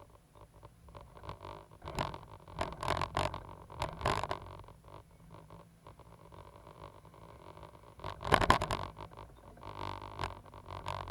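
Cat 320GC hydraulic excavator working: a low steady engine hum with three spells of scraping, rattling clatter, the loudest about eight seconds in.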